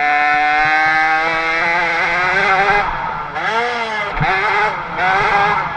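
Small 50cc two-stroke motocross bike engine held at high revs for nearly three seconds, pitch creeping up. It then drops off the throttle and revs up again twice in shorter bursts, the pitch dipping and climbing each time.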